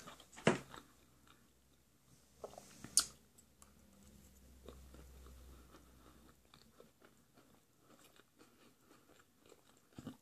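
A person chewing a mouthful of potato and chickpea curry with rice, close to the microphone, with two sharp clicks about half a second and three seconds in.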